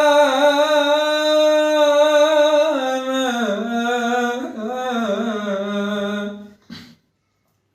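A solo voice sings an Arabic devotional poem in praise of the Prophet, unaccompanied. It holds one long steady note for nearly three seconds, then winds down through ornamented turns, and breaks off near the end.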